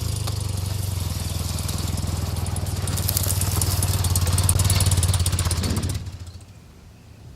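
Motorcycle engine running steadily, getting louder with a rising hiss about three seconds in, then falling away sharply about six seconds in.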